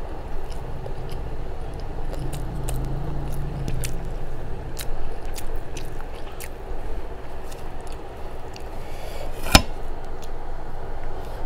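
Close-miked chewing of a mouthful of rice and mashed vegetables, with many small wet mouth clicks and smacks and one sharper click near the end.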